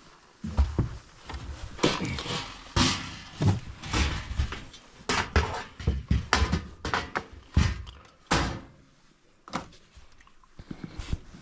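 A rapid run of knocks, thuds and clatter from things being handled and set down, some sharp and loud, easing off for a moment near the end.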